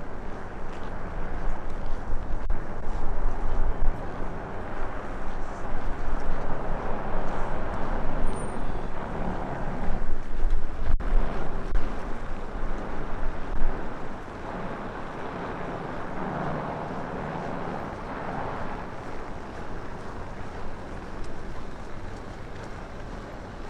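Strong wind buffeting the microphone in gusts, a deep uneven rumble that eases to a steadier, quieter rush about halfway through, over a steady rushing city background.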